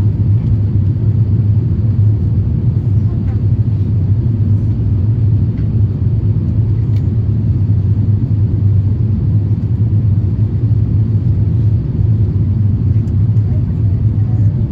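Steady low rumble inside the cabin of an Airbus A350-1000 airliner, even in level throughout with no rise or fall in pitch.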